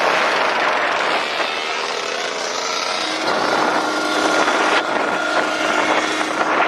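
Dirt bike engine running, loud, with its engine note holding a steady pitch from about three seconds in.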